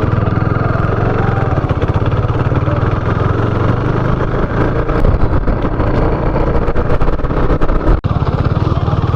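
Motorcycle engine running steadily while being ridden, with a brief sharp drop in sound about eight seconds in.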